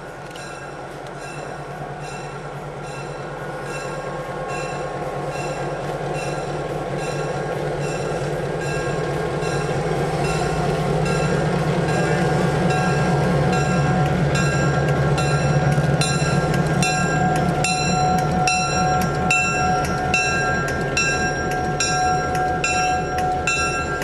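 Diesel locomotive approaching and passing close by with its bell ringing in a steady rhythm. The low engine rumble grows to its loudest as the unit goes by, and from about halfway a steady high wheel squeal joins as the coaches roll past.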